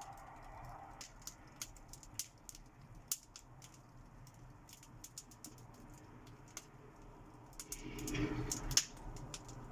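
Fire crackling: irregular sharp pops and snaps over a soft low rush, with a louder, fuller surge about eight seconds in.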